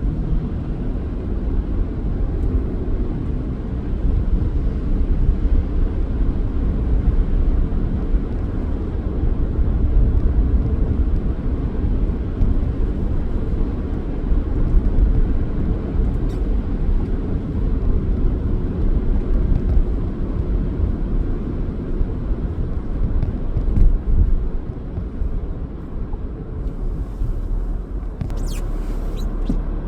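A car driving: steady low engine and road rumble, with a few brief sharp higher sounds near the end.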